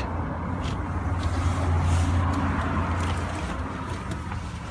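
Low vehicle hum that swells around two seconds in and then fades.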